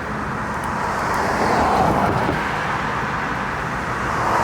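A train rolling past at speed: a steady rushing rumble that swells about a second and a half in and again near the end.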